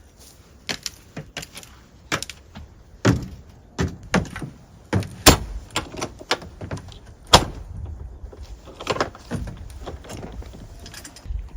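A run of irregular knocks, clacks and thuds of hard objects being handled and set down, the loudest two sharp knocks about five and seven seconds in.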